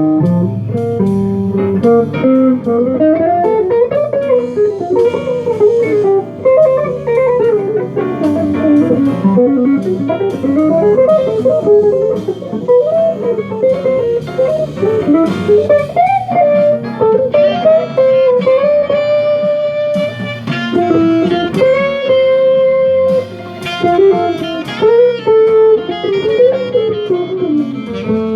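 Jazz guitar playing quick, winding single-note melodic lines over a lower accompaniment.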